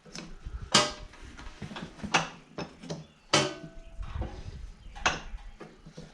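Hand tools clanking against steel mower parts: four sharp metal knocks about a second or so apart, with smaller clatter between and a brief ring after some strikes.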